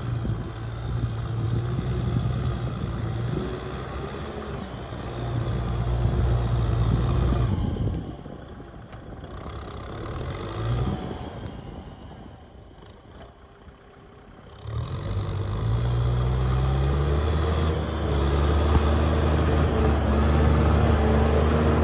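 Kubota M6040 SU tractor's diesel engine running loud under load. About eight seconds in it fades and stays faint for several seconds, then climbs in pitch as it revs back up and runs steady and loud again.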